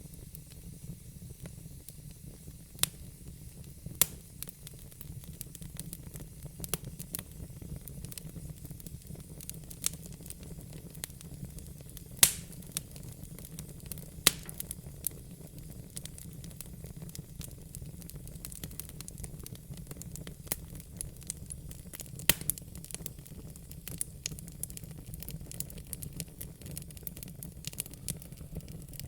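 Fire crackling: irregular sharp pops and snaps over a low, steady rush, with the loudest pop about twelve seconds in.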